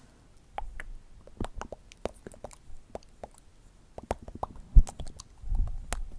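Close-miked ASMR mouth sounds: a quick, irregular run of wet clicks and smacks of the lips and tongue, with one sharper pop a little past the middle.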